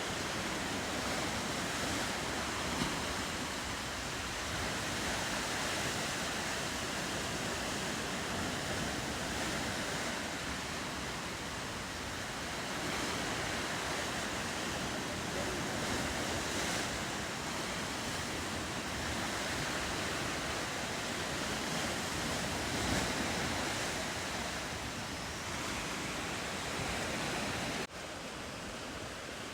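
Ocean surf and swell washing against the coast, a steady rushing that rises and falls slowly. It drops abruptly to a quieter rush near the end.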